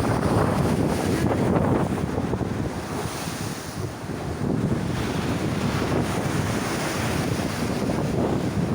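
Strong wind buffeting the microphone over the steady rush of heavy waves breaking, swelling and easing a little without pause.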